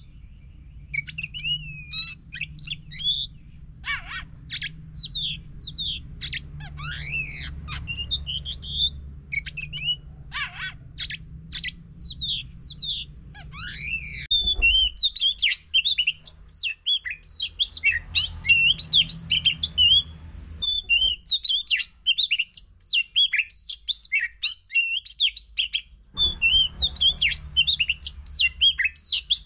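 Oriental magpie-robin (kacer) singing a lure song: varied clear whistles and sliding notes at first, then from about halfway a fast, unbroken run of chirps and trills.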